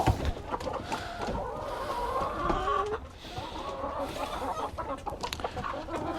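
Several chicken hens clucking and calling over one another.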